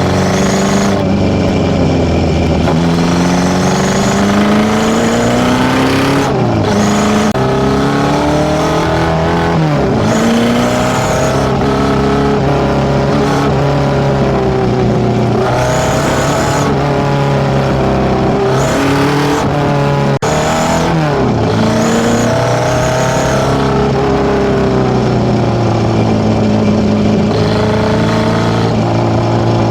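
Tuned Nissan A15 four-cylinder on FCR41 carburettors, breathing through a one-off 54 mm stainless exhaust, revving up and dropping back over and over, its pitch climbing and falling every few seconds.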